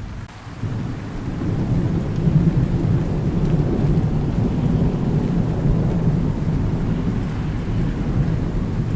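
Thunder rumbling low and long over steady rain. The rumble builds about a second in and keeps rolling.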